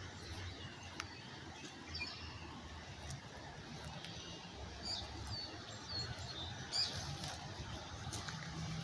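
Wild birds chirping: several short, high calls scattered through, over a low steady outdoor rumble.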